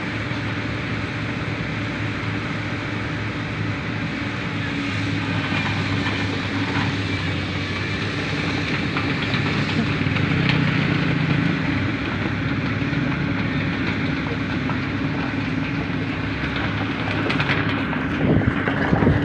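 Diesel engine of a heavy tracked machine (an excavator or PVD piling rig) running steadily, with a constant low drone and a hum. Irregular knocks and clatter come in near the end.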